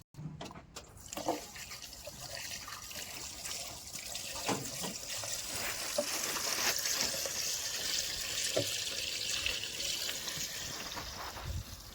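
Water running or pouring in a steady hiss that builds after the first couple of seconds and eases near the end, with a few faint knocks.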